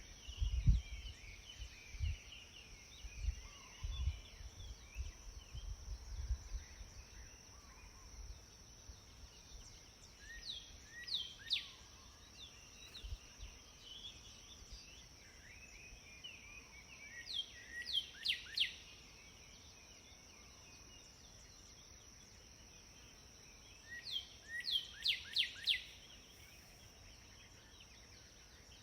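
Sparrows chirping. There are three bursts of quick, high notes that each sweep downward, at about 11 s, 18 s and 25 s. A steady high-pitched drone runs underneath, and low thumps sound in the first several seconds.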